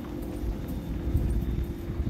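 Passenger train running along the track, heard from inside the carriage: a steady low rumble of wheels on rail with a faint steady hum and occasional light clicks.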